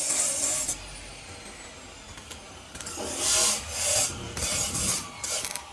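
A steady hiss that cuts off under a second in, then a series of rasping, scraping strokes from a hand tool working a surface.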